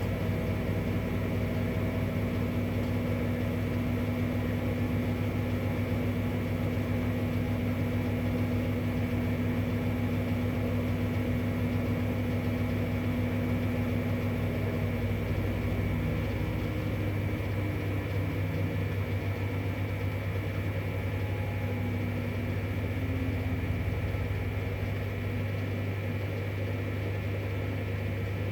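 2011 V-Zug Unimatic SL washing machine running in its 40°C wash programme: a steady motor hum with a low drone and a higher tone that drops away about halfway through.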